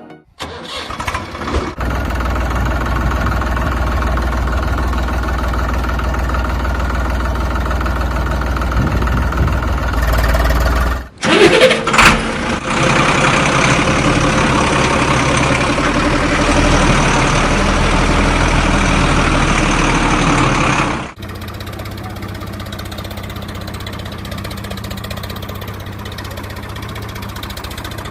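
Tractor engine running at idle, a steady drone in three edited stretches with abrupt changes of level about 2, 11 and 21 seconds in. There are a few loud knocks near the middle.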